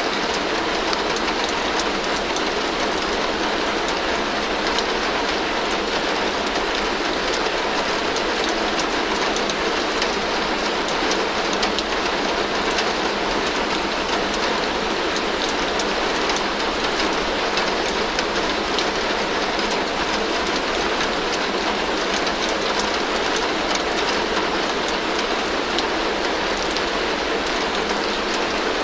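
Heavy rain falling steadily on a tin roof: a dense, even patter of drops on metal that holds at the same strength throughout.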